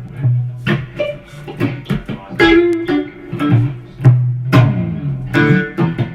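Guitar playing a blues riff: sharply picked notes over a low note that keeps returning.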